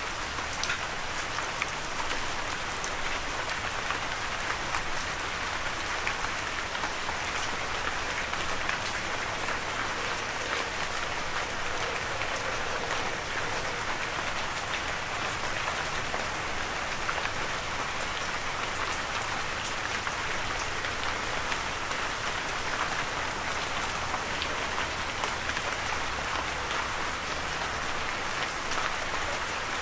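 Steady rain falling on a surface, with many individual drops ticking through an even hiss.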